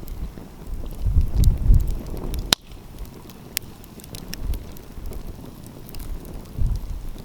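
Wood fire crackling, with scattered sharp pops, the loudest about two and a half seconds in, over wind gusting on the microphone.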